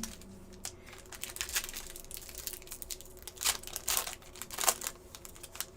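Trading cards being handled: light rustling and sliding, with a few louder swishes between three and a half and five seconds in.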